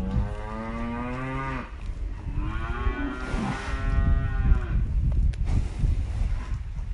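Cow mooing twice, two long calls about half a second apart.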